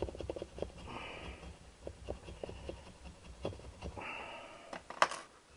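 Light clicks and small knocks of metal engine parts being handled, with two short hissing sounds and one sharp click about five seconds in.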